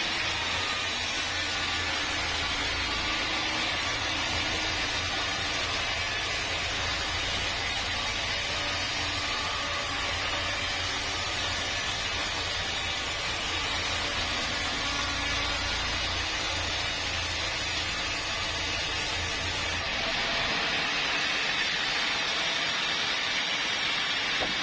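Steady hiss and low hum of sawmill machinery running. The low hum cuts out abruptly about twenty seconds in, while the hiss carries on.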